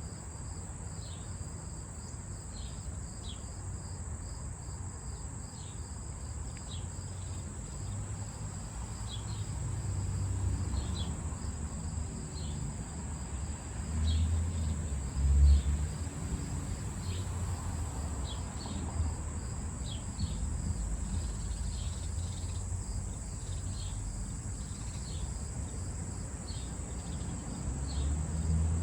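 Evening insect chorus: a steady high-pitched trill, with short chirps every second or so over it. A low rumble underneath swells briefly about halfway through.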